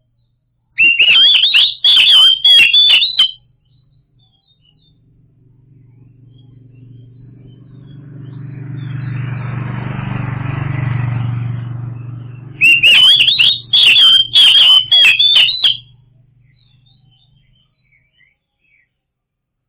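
Oriental magpie-robin (kacer) singing two loud, fast phrases of whistled notes mixed with sharp clicks, about ten seconds apart. Between them a low rumble swells and then fades over several seconds.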